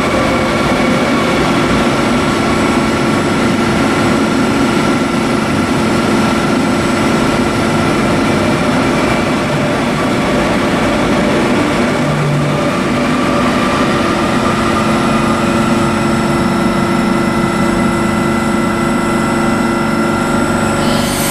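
Electric train running past, a steady whine of several held tones over continuous rolling noise.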